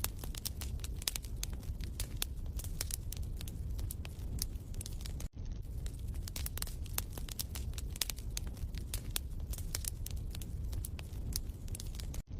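Wood fire in a fireplace crackling, with dense, irregular pops and snaps over a steady low rumble. It cuts out for an instant about five seconds in.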